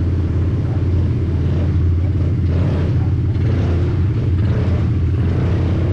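Quad bike engine running steadily under way, a low, even drone with no clear rise or fall in revs.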